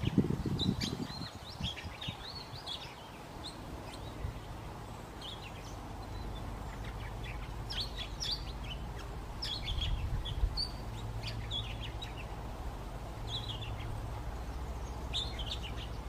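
Small birds chirping in short, high calls that come in scattered clusters, with a low rumble in the first second.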